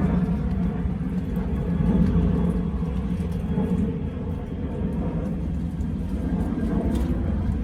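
A steady low engine rumble, as of a vehicle or machine running, with a constant hum and no clear change in pitch.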